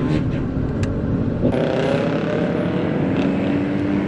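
Road vehicle engines running on a street, with an abrupt change in the sound about a second and a half in.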